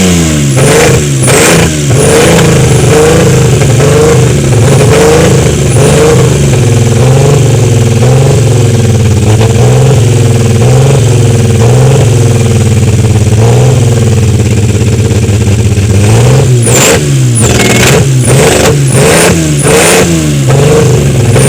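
Freshly overhauled KIA Carnival petrol engine running with its exhaust pipe disconnected, its pitch climbing at first and then rising and falling about once a second as it is revved lightly. A few sharp clicks come near the end.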